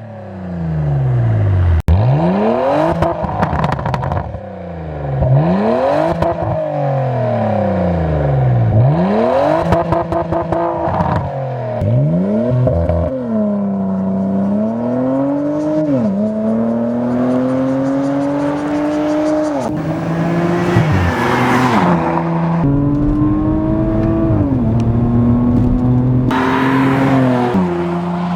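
Porsche Macan twin-turbo V6 through an Armytrix cat-back valvetronic exhaust. Its revs swing up and down repeatedly, then it pulls hard through several gears, the pitch climbing on each and dropping sharply at every upshift.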